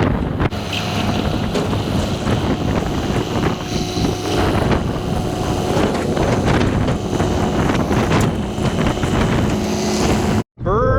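Bobcat T750 skid steer's diesel engine running steadily, with wind buffeting the microphone.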